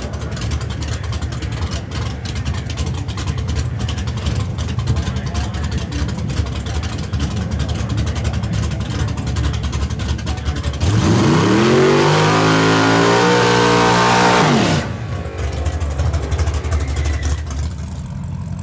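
Drag-racing car engine with a choppy, rumbling idle. About eleven seconds in it revs up sharply and pulls hard for about four seconds, then cuts off suddenly.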